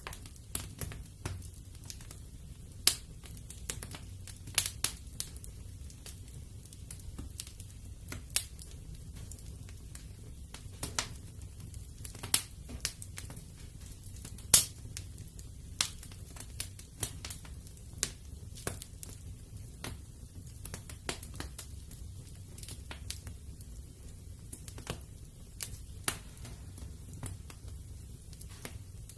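Fire burning in a fireplace, crackling with irregular sharp pops over a low steady rumble; one pop about halfway through is louder than the rest.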